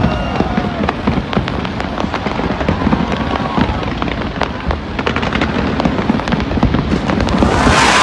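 Fireworks display: a dense, continuous run of booms and sharp crackling pops, with a loud rushing noise swelling near the end.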